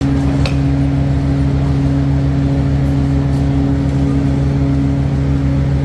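Vehicle engine running steadily with a deep, even hum and a pulsing low rumble.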